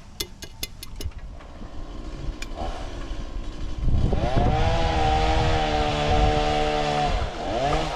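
An engine revs up to a high, steady pitch and holds it for about three seconds, then drops and picks up again near the end. A few sharp clicks come in the first second.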